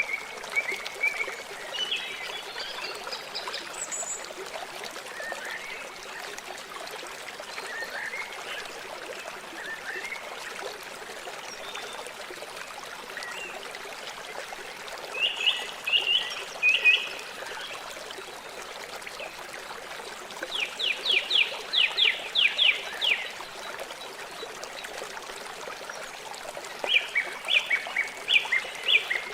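Steady rush of flowing river water. About halfway through, again a few seconds later and near the end come bursts of short, quickly repeated high calls from an animal, the middle burst a fast run of about ten notes.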